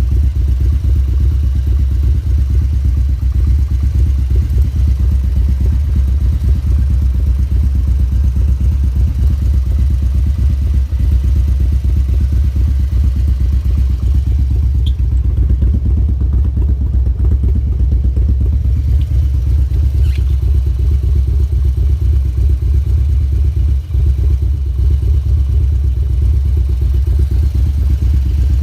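Harley-Davidson V-twin engine idling steadily with a deep, even low rumble, left running to warm up.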